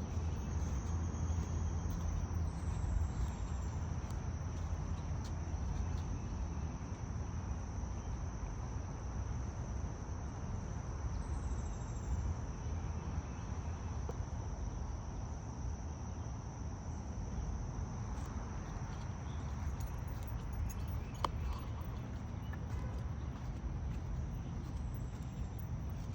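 Crickets singing in one steady, unbroken high trill, with a few short, faint higher chirps and a low steady rumble underneath.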